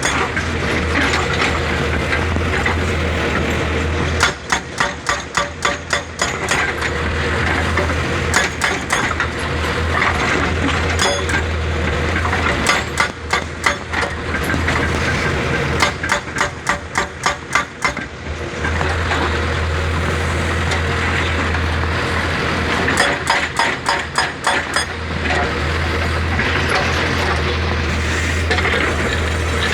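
Excavator-mounted hydraulic rock breaker hammering on rock in several bursts of rapid, evenly spaced blows, over the excavator's steady diesel engine.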